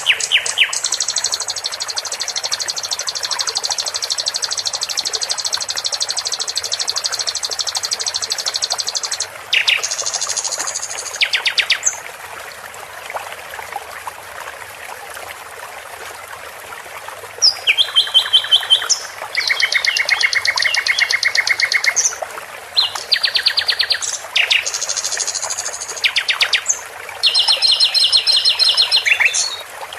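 Songbird master recording: bouts of fast, repeated trills and chirps, a long trill of about nine seconds first, then shorter bursts, over a steady background of running water. The birdsong drops out for several seconds near the middle, leaving only the water.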